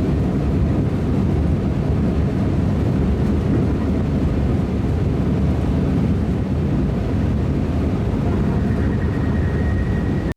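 Steady, even rumble of a high-speed train running at speed, with a faint thin high whine coming in near the end.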